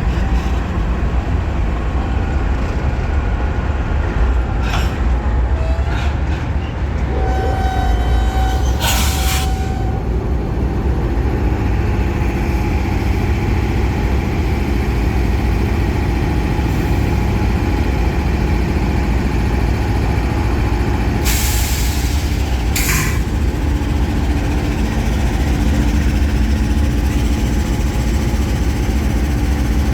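Norfolk Southern freight train rumbling steadily on the tracks, with a few short hisses: one about a third of the way in and two close together past the middle.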